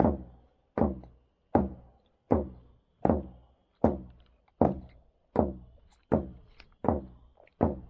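Native American hand drum struck in a slow, steady beat, a little more than one hit a second, each deep hit ringing out and dying away before the next.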